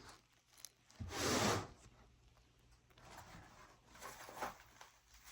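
Dry peat moss being crumbled by hand and tossed into a composting toilet: a short rustling rush about a second in, then fainter scraping and crumbling.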